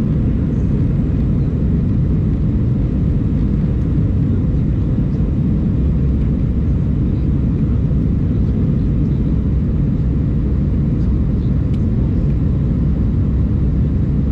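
Airbus A319 cabin noise: a steady, loud drone of the jet engines and airflow, heaviest in the low end, with no change in pitch or level.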